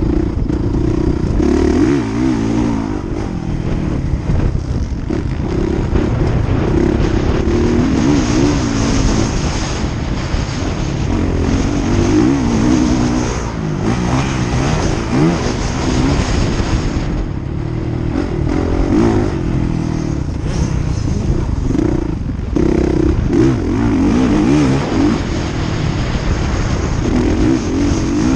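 Motocross bike engines revving hard on the track. The engine pitch rises and falls over and over as the riders accelerate, shift and back off.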